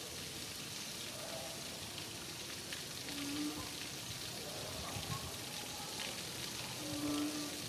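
Steady rain falling, an even hiss with a few drips. Twice, about three seconds apart, a short low pitched call sounds over the rain.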